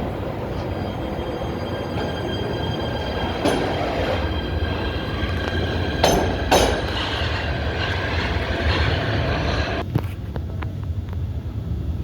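PATH subway train running, heard from inside the car: a steady low rumble with a high-pitched wheel squeal over it. Sharp clunks come about three and a half seconds in and twice around six seconds in, and the squeal cuts off about ten seconds in.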